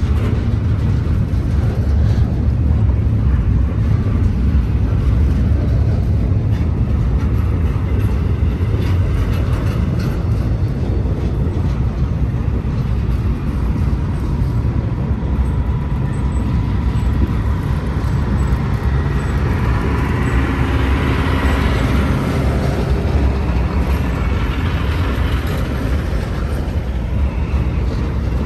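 BNSF intermodal freight train rolling past close by: double-stack well cars and trailer-carrying spine cars clattering and rumbling steadily over the rails. A faint thin whine rises about halfway through and fades again.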